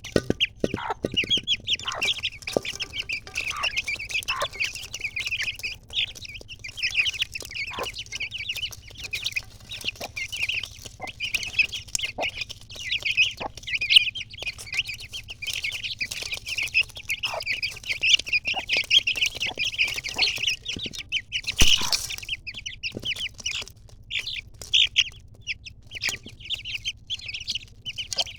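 A brood of Aseel chicks peeping continuously in rapid, high chirps, with scattered light clicks and one sharp knock about three-quarters of the way through.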